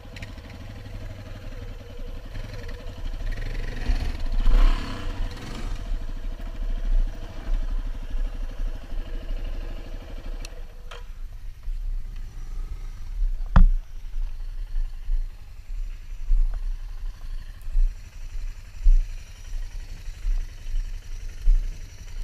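Single-cylinder four-stroke dual-sport motorcycle engine running, revving up about four to five seconds in. The engine note drops away about eleven seconds in, leaving a low rumble, and a single sharp knock comes a couple of seconds later.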